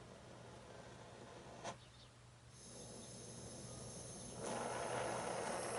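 Small oxyacetylene torch: a single sharp click about a third of the way in, then gas hissing that starts about a second later and turns louder and fuller near the end as the torch gets going.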